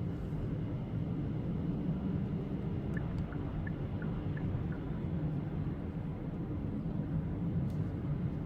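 Hyundai Kona 1.6 T-GDI turbo petrol engine and road noise heard inside the cabin while driving in town, the engine still warming up: a steady low rumble. Around the middle comes a short run of faint, evenly spaced high ticks.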